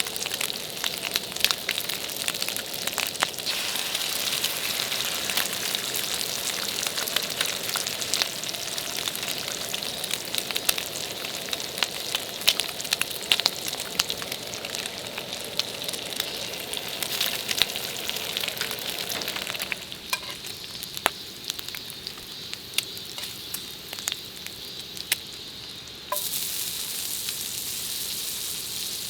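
Food sizzling and spitting in a hot pan, with many small sharp pops. The sizzle thins about two-thirds of the way through, and a brighter, higher hiss comes in near the end.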